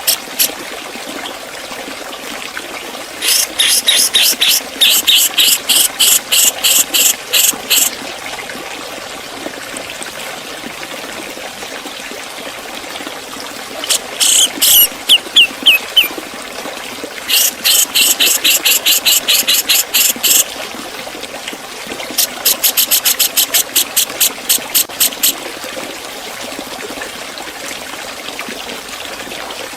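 Grey-cheeked bulbul (cucak jenggot) singing fast runs of sharp, high repeated notes in the 'ngepik' style, four bursts of a few seconds each, with a short series of falling notes in the middle. A steady hiss like trickling water runs beneath.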